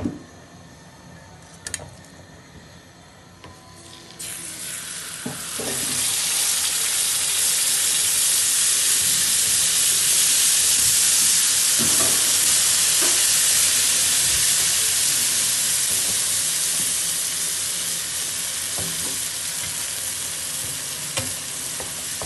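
Thick hareesa spooned into hot desi ghee in a small karahi, fried and stirred with a wooden spoon. It is fairly quiet for the first few seconds; a loud sizzle starts about four seconds in as the hareesa hits the ghee, continues steadily, and eases slightly near the end.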